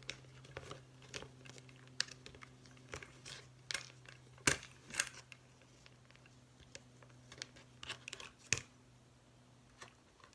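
Paper and paper-plate craft pieces being handled: scattered rustling and crinkling with short clicks, the sharpest about four and a half seconds in and again near eight and a half seconds.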